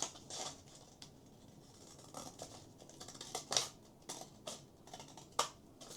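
Scissors cutting through folded paper: several separate, faint snips with pauses between them.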